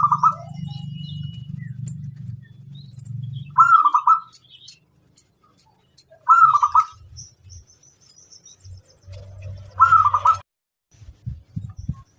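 Zebra dove (perkutut) cooing: four short phrases of a few quick notes each, repeated about every three seconds. A low steady hum sounds under the first few seconds, then stops.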